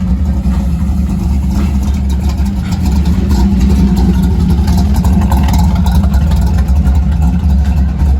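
A hot rod's engine and exhaust rumbling loudly as it drives past, growing a little louder about three seconds in.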